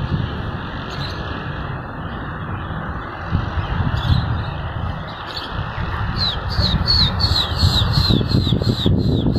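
Wind rumbling on the microphone throughout. From about six seconds in, a bird calls a quick run of short, falling chirps, about three a second.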